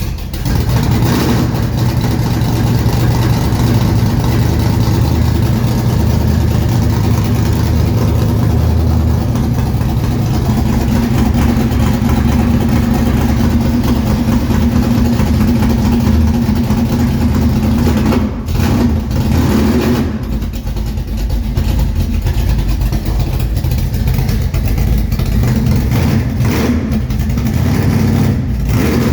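Big-block Chevy 454 V8, bored .030 over, in a 1964 Chevrolet Bel Air, running steadily just after a cold start. A few brief changes in the engine note come in the last third.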